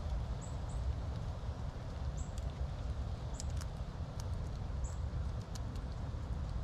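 Wind buffeting the GoPro microphone, heard as a steady low rumble, with scattered sharp clicks of a squirrel chewing its food. Short high chirps recur every second or so.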